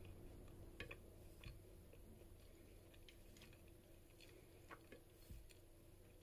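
Faint chewing of a soft keto flatbread (mozzarella and coconut flour), a few quiet mouth clicks scattered over near silence.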